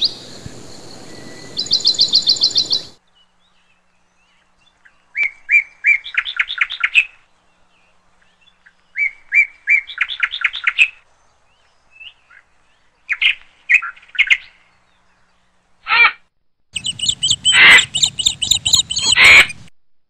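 Small birds chirping in short, rapidly trilled phrases, a group every few seconds with quiet gaps between, over a low rumbling noise in the first few seconds and near the end.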